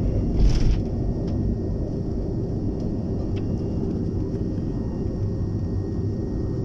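Cabin noise of a BAe 146-200 with its four turbofan engines running: a steady low rumble with a faint high whine, and a brief hiss about half a second in.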